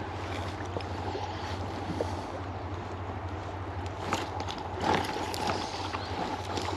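River water running steadily, with a low steady rumble underneath and a couple of faint clicks about four and five seconds in.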